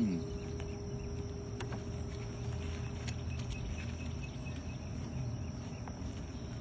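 Honeybees buzzing steadily around an opened nuc, with one bee sweeping past close at the start in a falling drone. A few light clicks sound over the hum.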